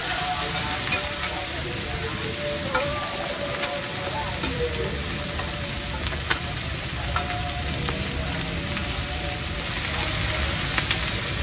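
Mussel omelettes and fried eggs sizzling in oil on a large flat griddle pan, a steady hiss. A metal spatula scrapes and clicks against the pan now and then.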